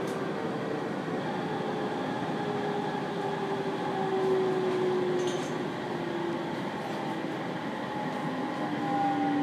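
A 701-series electric train running, heard from inside the car: steady wheel-on-rail rumble with the motor whine under it, several tones sliding slowly down in pitch as the train slows.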